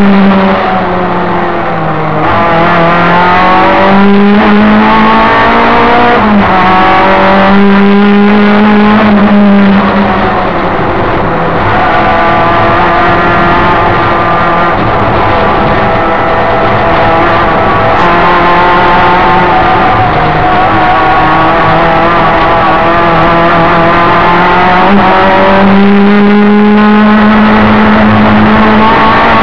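Opel Ascona race car's four-cylinder engine heard from inside the cabin, pulling hard at high revs. The pitch climbs through each gear, breaks briefly at the shifts and falls away as the driver lifts and brakes for corners.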